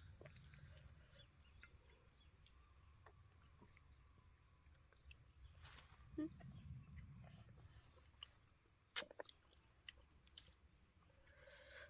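Near silence: faint outdoor ambience with a steady high-pitched whine and scattered small clicks, with a sharper click about nine seconds in.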